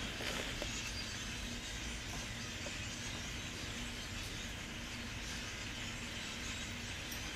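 Steady racket of a large flock of birds calling together in the trees, a dense, continuous chatter with no single call standing out.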